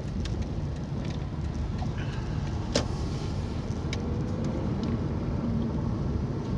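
Steady low engine and road rumble of a car driving slowly, heard from inside the cabin, with a sharp click about three seconds in.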